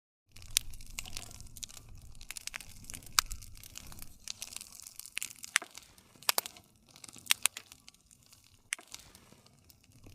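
Wood fire crackling, with irregular sharp pops and snaps over a low rumble of burning. It starts just after a brief silent gap.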